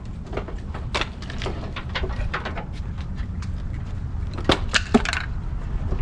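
Hand tools and metal parts clinking and clanking as they work in a car's engine bay, with scattered clicks and two sharper knocks about four and a half and five seconds in, over a steady low rumble.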